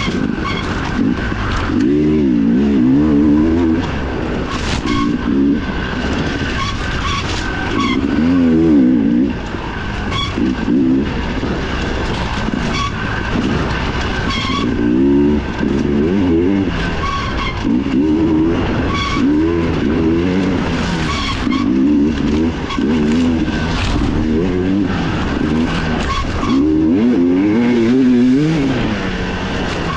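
Dirt bike engine racing on a trail, revving up and dropping back over and over as the rider shifts and throttles through the terrain.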